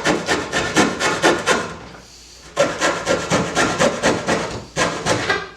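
Hand saw cutting through wood in quick, even back-and-forth strokes, about five a second. The strokes stop for half a second about two seconds in, then resume.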